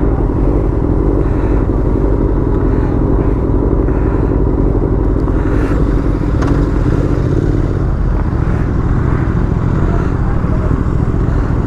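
Motorcycle engine running steadily under way, with an even drone and no clear revving.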